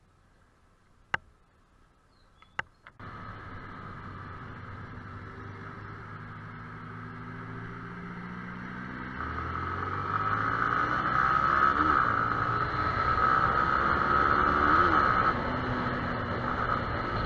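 Yamaha YZF-R15 single-cylinder motorcycle engine running, with a noisy hiss of wind and road over it. The engine's pitch rises as the bike accelerates and the sound gets louder. Two sharp clicks come first, then the engine sound starts abruptly about three seconds in.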